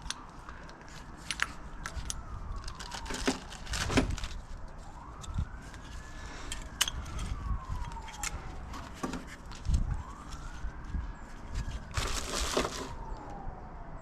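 A siren wailing, its pitch slowly rising and falling about every four to five seconds, over scattered metallic clicks and rattles of bolts and washers being handled, with a louder rattle near the end.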